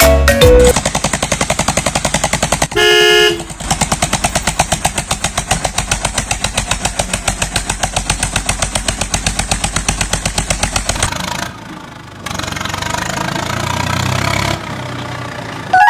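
Toy vehicle engine sound, a rapid even chugging, with a short horn honk about three seconds in. Near the end it drops to a quieter, noisier rumble.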